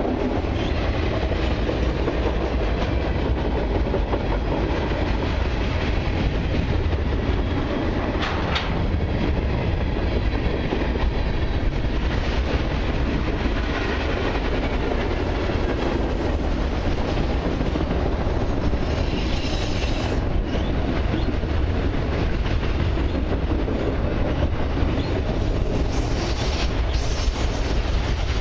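Long freight train of autoracks and mixed cars rolling steadily past, steel wheels clattering over the rails, with a faint high-pitched wheel squeal now and then.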